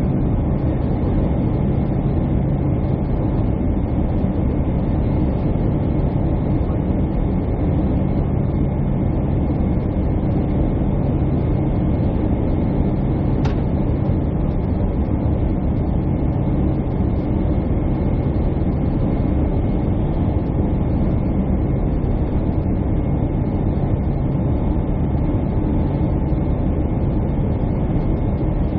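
Jet airliner cabin noise: the steady rumble of engines and airflow heard from a window seat, with a few constant hums and one faint click about halfway through.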